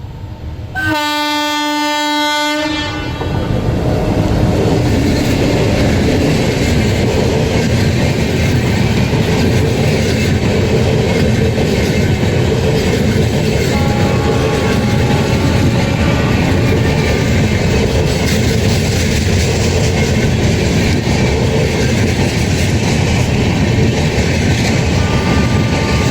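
Indian Railways locomotive horn blowing once for about two seconds, then the train passing close at speed with a loud steady rumble and wheels clattering over the rail joints.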